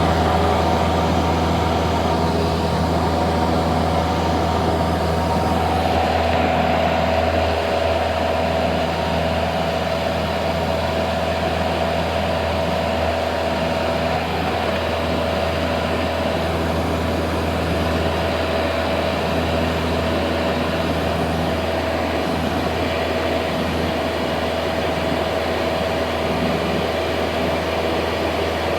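Cessna 172's piston engine and propeller running with a steady drone; the pitch shifts slightly about six seconds in.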